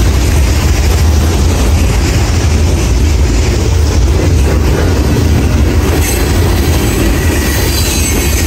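Freight train of open-top hopper cars rolling past at close range: a steady, loud rumble of steel wheels on the rails.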